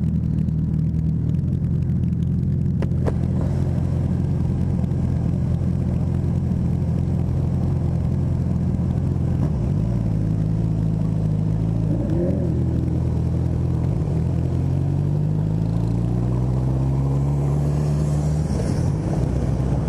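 Honda CB1000R's inline-four engine idling steadily, then pulling away: over the last few seconds its note rises, then drops near the end at a gear change.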